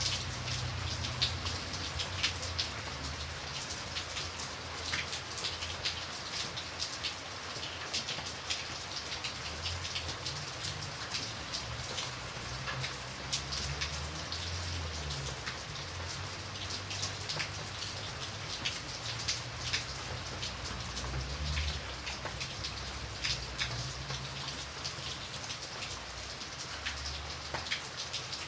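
Steady rain falling, with many separate drops ticking sharply on a surface over a continuous hiss, and a low, uneven rumble underneath.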